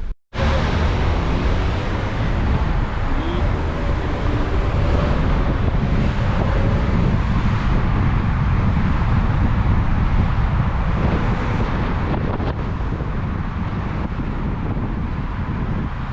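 Wind buffeting the microphone: a loud, steady rumbling rush with no clear engine note.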